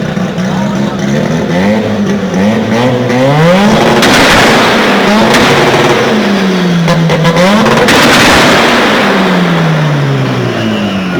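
Modified car engine revved repeatedly, its pitch climbing and falling several times, with sharp exhaust pops and bangs in the loudest stretch in the middle.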